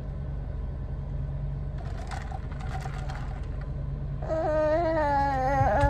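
A steady low hum, with a voice humming one long, gently wavering "mmm" for about a second and a half near the end.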